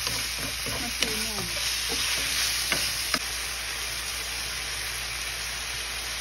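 Diced chicken sizzling as it fries in oil in a nonstick pan, with a few sharp taps in the first three seconds, then a steady sizzle.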